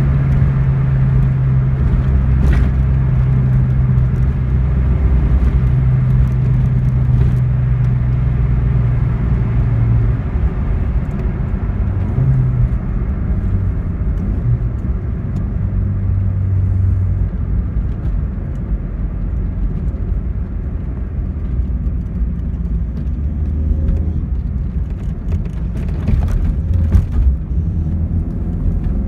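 Alfa Romeo 33 1.3's 1351 cc flat-four boxer engine, with twin twin-choke carburettors and new Bosch spark plugs, heard from inside the cabin while driving. Its note holds steady for about ten seconds, then drops lower and varies, and rises again near the end.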